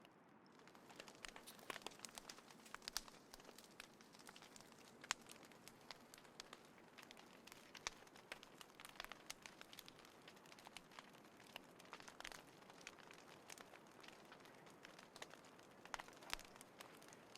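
Small wood fire crackling, with irregular sharp pops over a faint hiss.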